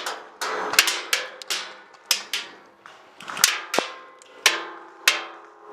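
Airsoft guns firing single shots in a firefight: about a dozen sharp cracks at irregular intervals, some with a short ringing decay.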